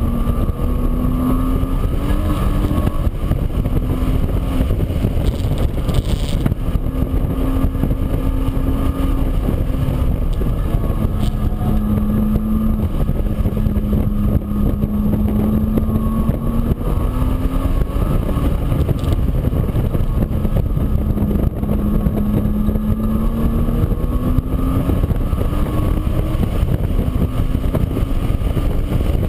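A motor running steadily over a heavy low rumble, its pitch drifting slowly up and down.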